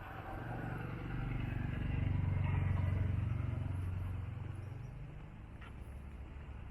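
A motor vehicle passing by: its engine hum grows louder, peaks about two to three seconds in, then fades away.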